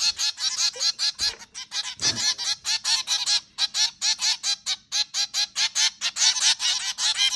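A group of zebra finches giving their short, nasal, honking calls in a rapid, continuous chatter, about six calls a second with several birds overlapping.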